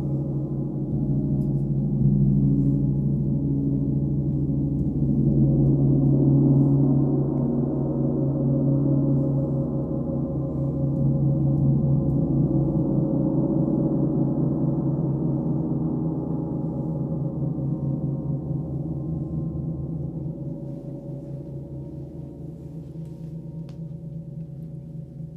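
Sound-bath instrument ringing with deep, overlapping sustained tones that swell a few times and then slowly die away near the end.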